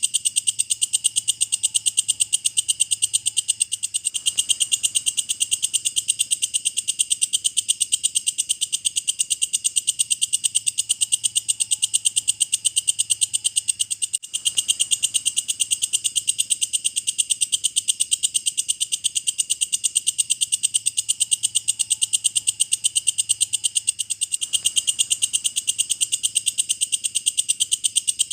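Walang kecek insect singing: a continuous, rapid and even ticking trill, high-pitched, with a brief break about halfway through.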